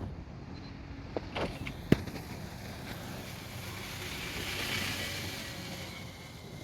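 A vehicle running with a steady low rumble. There is a sharp knock about two seconds in, and a hiss swells around four to five seconds in, then fades.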